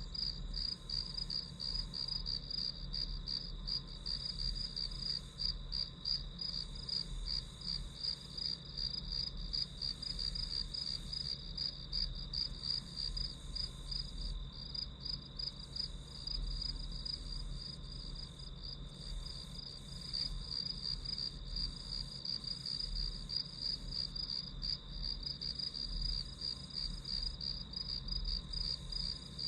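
Crickets chirping without a break: a steady, rapidly pulsing high-pitched trill, with a faint low hum beneath.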